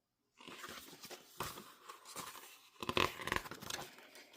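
Paper and album packaging being handled, rustling and scraping with small clicks, loudest about three seconds in.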